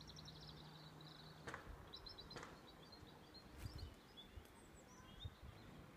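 Faint outdoor quiet with small songbirds chirping and trilling in short high phrases, and a few soft clicks and low thumps.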